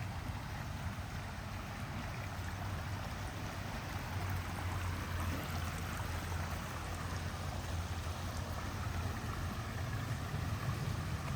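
Small stream flowing with a steady rushing sound that grows a little fuller partway through, over a constant low rumble.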